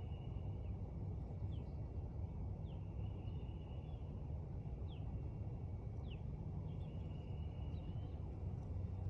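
Outdoor ambience: a steady low rumble with a handful of short, falling bird chirps and a thin, high trill that comes and goes.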